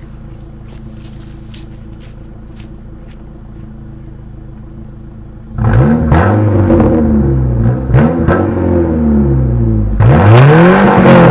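1998 Ford Escort's engine running with the muffler cut off: idling steadily, then from about halfway in revved up and down several times, and revved harder and louder near the end.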